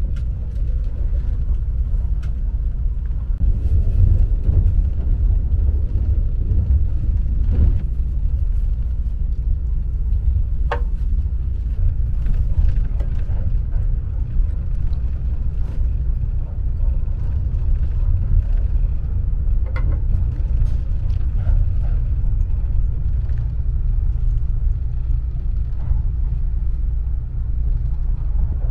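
Steady low rumble of the Kintetsu Hinotori express train running along the line, heard inside the passenger cabin, with a few faint clicks.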